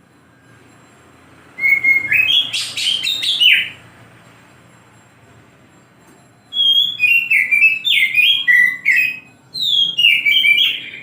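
Oriental magpie-robin singing in three bursts of varied, quick whistled notes that slide and step in pitch, laced with sharp clicks. The bursts come about a second and a half in, past the middle, and near the end, with short pauses between them.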